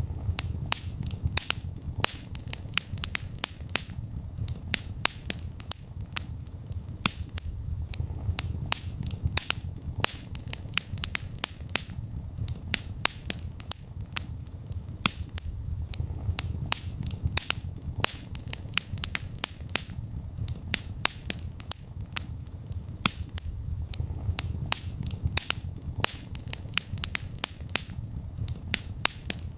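Wood fire burning in a fireplace, crackling with frequent sharp pops and snaps, several a second, over a steady low rumble of the flames.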